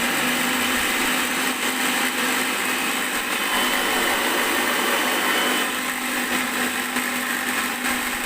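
Electric mixer grinder running at full speed with a loud, steady motor noise and hum. This is the excessive running noise, the "over sound" problem the grinder has come in to be repaired for.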